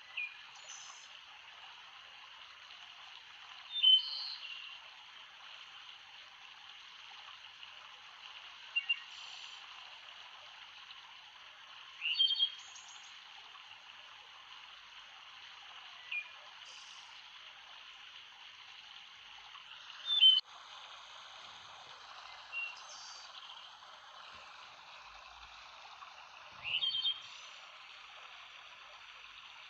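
A stream's steady babbling rush, with a bird giving short chirps about every four seconds, eight times in all.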